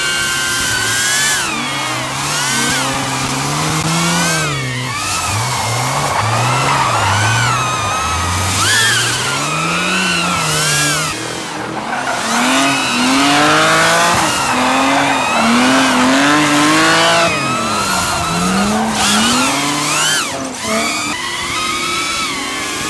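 Drift car engines revving hard. The pitch climbs and drops again every second or so as the throttle is worked through the slide, with tyre squeal underneath. About halfway through, a second engine overlaps the first.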